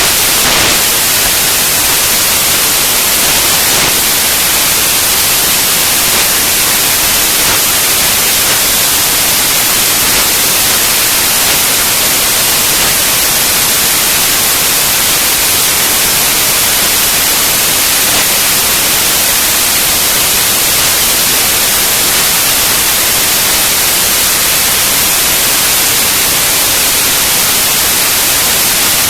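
Loud, steady hiss of static, like white noise, with most of its energy in the high frequencies.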